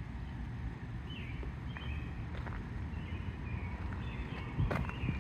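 Small birds chirping over and over above a steady low rumble, with a couple of sharp clicks near the end.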